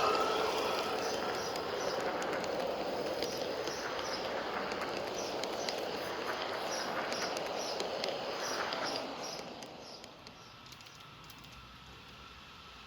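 Spur 1 scale model of an M62 diesel locomotive running along garden railway track, with a row of short, even ticks over a steady rolling noise. The sound drops away about nine seconds in as the train moves off.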